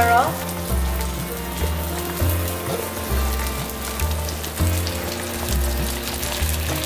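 Chili spice paste for rendang frying and sizzling in a wok, with coconut milk being poured into it in the second half. Background music with a steady bass beat plays over it.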